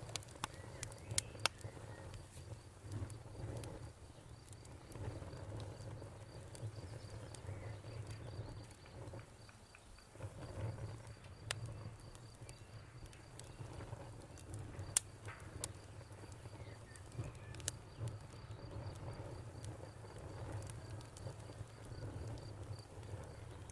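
Campfire crackling, with scattered sharp pops over a low rumble, and a cricket chirping in an even, rapid pulse.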